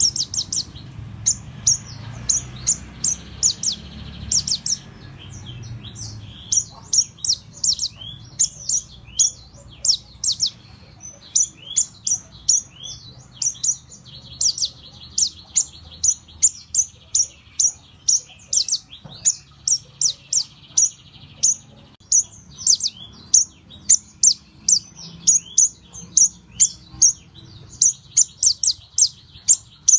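Konin (kolibri ninja) sunbird singing: a rapid, continuous run of short, high, sharp chirps mixed with brief twittering trills.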